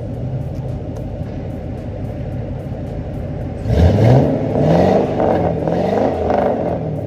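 LS-swapped V8 engine in a box Chevy idling through its new exhaust, then revved several times, rising and falling in pitch, from about halfway through before it drops back toward idle.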